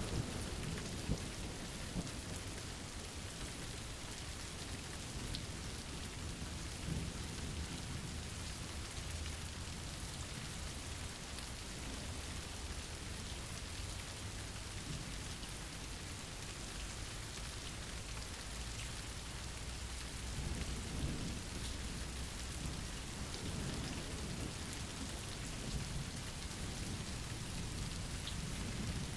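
Steady rain hiss with low rolling thunder rumbling underneath, the rumble swelling about two-thirds of the way through.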